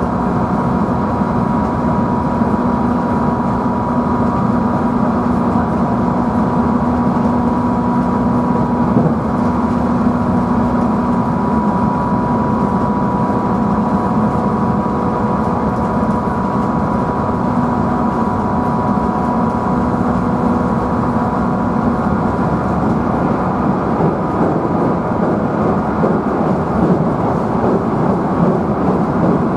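Inside a JR Central 311 series electric multiple unit's motor car (KuMoHa 311) while the train runs: a steady rumble of wheels on rail under the traction motors' hum. A lower tone in the motor sound fades out about halfway through, comes back for a few seconds, then fades again.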